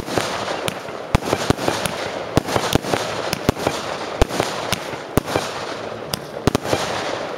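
Aerial fireworks bursting in quick succession: a rapid, irregular run of sharp bangs, several a second, over a steady rushing noise.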